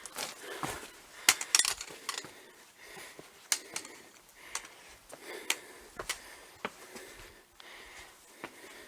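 Footsteps of a hiker on the rocky, gravelly floor of a dry wadi: irregular crunches and sharp clicks of stones underfoot, about one or two a second.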